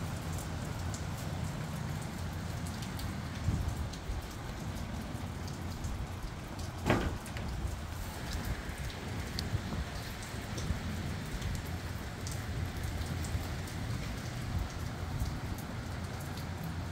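Steady rain falling with gusty wind rumbling on the microphone, raindrops ticking throughout. One sharp knock stands out a little before halfway through.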